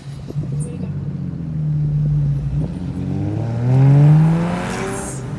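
Car engine running, then accelerating from about three seconds in, its pitch rising and loudest near four seconds.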